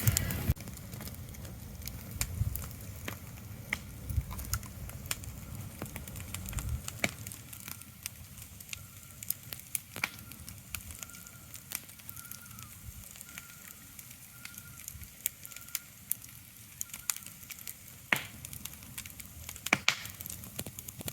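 Steady hiss of an ambient sleep-sound track, broken by scattered sharp crackles and clicks. A low rumble fades out about seven seconds in, and a faint, high, repeated note comes and goes in the middle.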